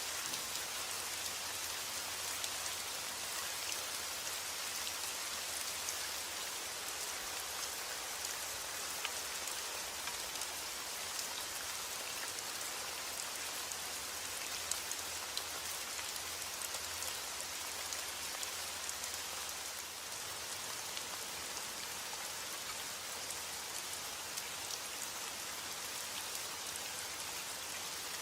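Steady heavy rain falling on a roof, a constant hiss with scattered sharp drop hits ticking through it.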